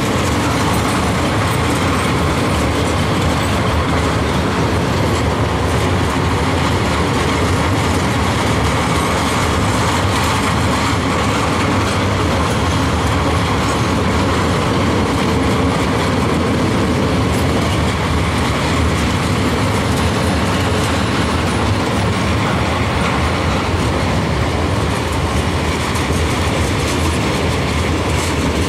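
A train rolling past close by, a steady clatter of wheels on the rails that keeps on without a break.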